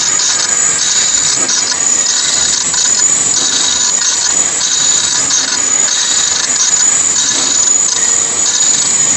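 Heavy lathe cutting metal: a steady mechanical whine and hiss, with a higher cutting noise that comes and goes about once a second.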